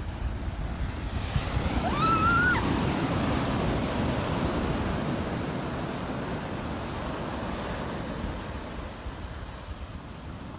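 Sea waves surging up the shore, swelling about two seconds in and then slowly washing back and fading. A brief high squeal sounds as the wave comes in.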